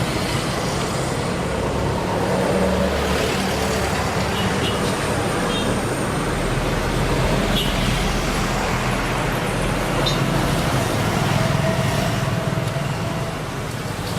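Steady road traffic noise: engines passing with a low rumble that swells and fades.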